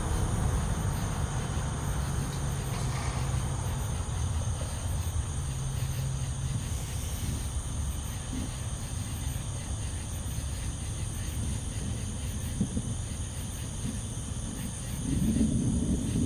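Low rumble of distant thunder, easing off about halfway through and swelling again near the end, over a steady high trilling of insects.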